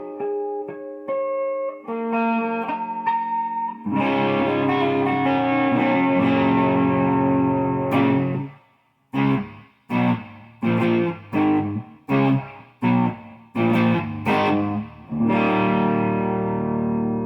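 Electric guitar, a Wolf Les Paul-style, played through a BK Butler amp's clean channel with its pedals switched off. A few picked single notes give way to a strummed chord left ringing, then a run of short choked chords a bit under two a second, and a last chord rings out near the end.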